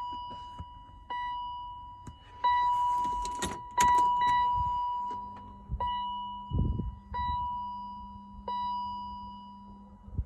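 Electronic car warning chime ringing about seven times at uneven intervals of one to two seconds, each ding dying away. Keys rattle around three seconds in, and a low steady hum starts about four seconds in.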